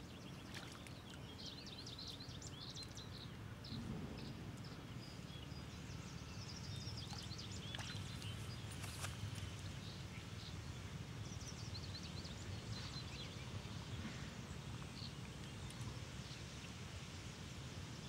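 Small birds chirping and calling on and off over a low, steady background rumble, with a few faint clicks.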